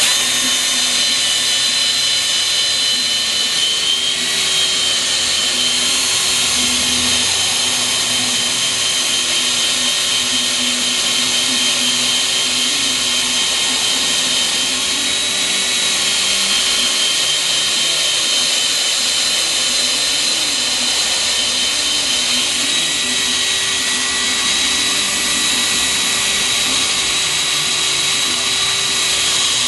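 Electric drill running steadily under load, boring a hole into the light-alloy AS41 Beetle engine case. It starts abruptly and runs without a break, its whine shifting slightly in pitch a few times.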